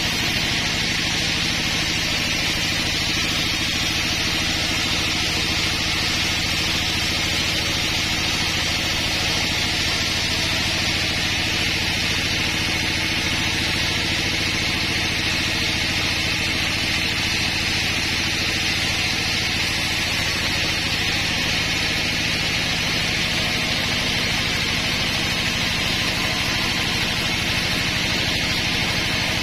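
Sawmill running steadily, its engine note under a constant high hiss as the saw cuts through a large pine log.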